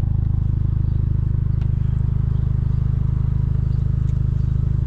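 Honda Civic Type R's K20 four-cylinder engine running steadily through a new Injen stainless exhaust, with an even, deep low pulse and no revving.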